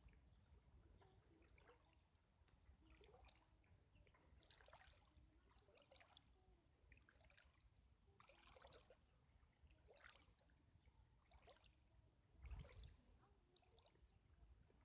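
Faint lapping of small waves at the river's edge: soft, irregular little splashes every second or two. A brief low rumble comes near the end.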